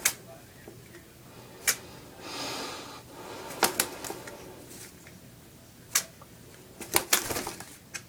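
Quaker parrot bathing in a water bowl, dunking its head: a handful of sharp splashes or knocks, a longer splash about two and a half seconds in, and a quick run of splashes about seven seconds in.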